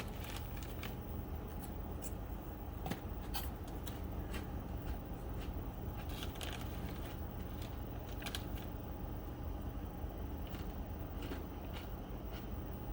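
Swedish torch burning, the wood crackling and popping irregularly over a steady low background.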